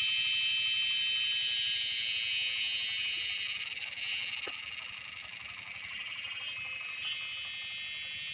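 Cicadas in a continuous, high-pitched buzzing chorus, easing slightly in the middle before holding steady again.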